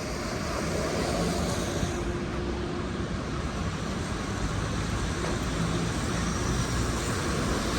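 Steady city street traffic noise: a continuous hiss of passing vehicles with a low engine hum underneath.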